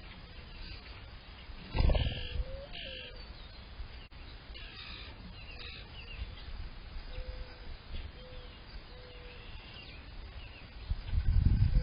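Mourning dove cooing: a low coo that swells upward, then a few short steady hoots, and the rising coo again near the end. Small songbirds chirp higher up, and wind rumbles on the microphone twice, briefly at about two seconds and again near the end.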